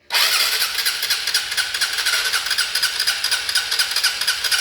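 Honda Titan 150 motorcycle's electric starter cranking the single-cylinder engine steadily without it catching; the engine spins over evenly, which the mechanic takes as a sign that it probably has no compression.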